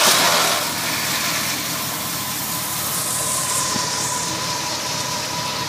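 1978 Ford Bronco's V8 engine just after starting, flaring up briefly, then settling into a steady idle with its exhaust leak repaired. A thin steady whine runs alongside from about a second in.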